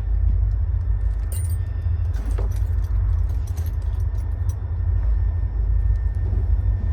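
Small metal clicks and rattles of door lock hardware being handled and fitted into a van's side door. A steady low rumble runs underneath.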